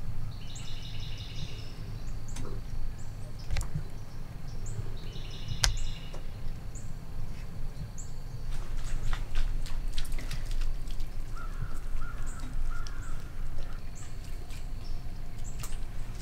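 Birds calling in woodland: two bursts of rapid repeated calls, near the start and about five seconds in, over short high chirps about once a second, with a warbling call near the end. A few sharp clicks and a steady low rumble run underneath.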